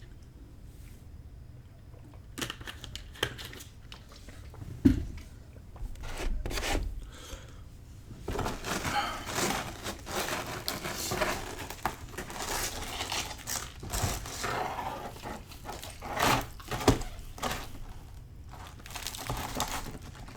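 Close-up eating sounds of pizza being torn and chewed, with irregular crackly crunches and rustling that grow busier about eight seconds in.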